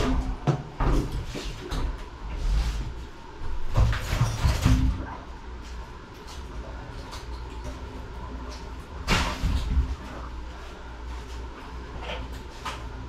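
Irregular clunks, knocks and scrapes of pipe-fitting work being handled, loudest about four seconds in and again about nine seconds in.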